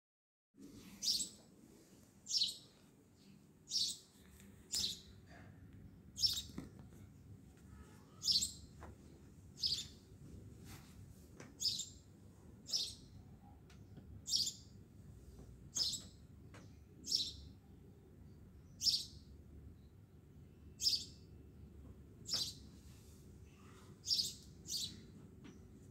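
A bird chirping short, high single notes over and over, one every second or two, over a faint steady low hum; the chirping starts about half a second in.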